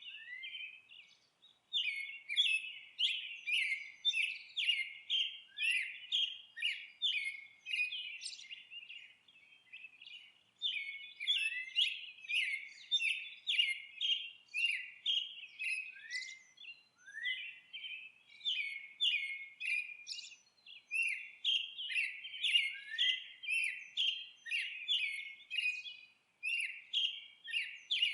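Songbirds chirping in a dense, rapid stream of high-pitched chirps and short upward-sweeping notes, with brief breaks about a second in and again around a third of the way through.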